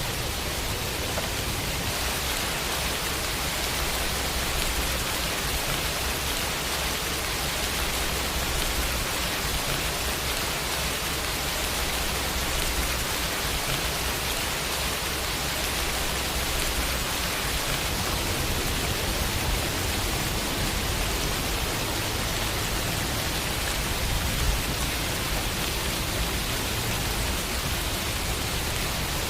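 Steady rain falling on a window, an even hiss of many drops with a low rumble underneath.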